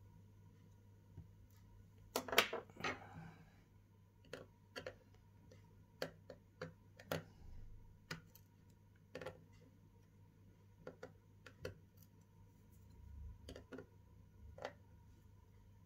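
Faint, scattered clicks and taps of small repair tools on an opened iPhone XR's parts, with a short scraping rustle about two seconds in.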